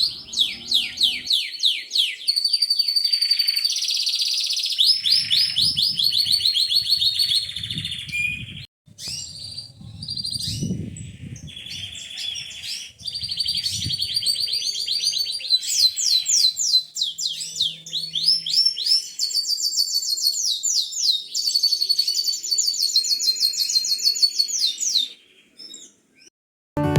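Domestic canaries singing: long songs of fast, rapidly repeated high chirps and trills. The song breaks off briefly about nine seconds in and fades out near the end.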